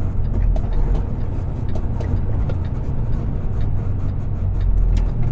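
Semi truck's diesel engine running under way, a steady low rumble heard from inside the cab.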